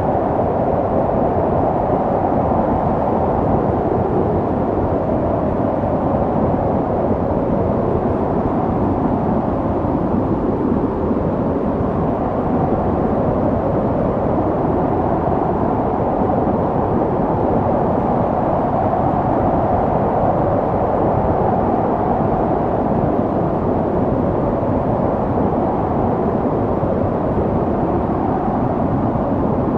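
Snowstorm wind blowing as a steady, even rushing noise, with no distinct gusts or breaks.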